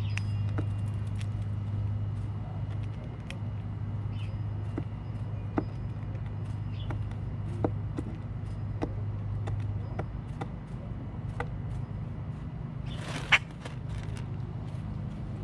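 A steady low hum, with scattered sharp clicks and faint short high chirps from birds. About 13 seconds in there is one brief, louder scratchy sound.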